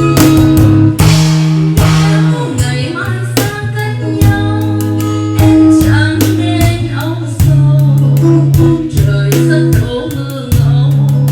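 Live band playing a slow bolero song: guitars strumming in a steady beat over a deep bass line, with a singer's voice over the top.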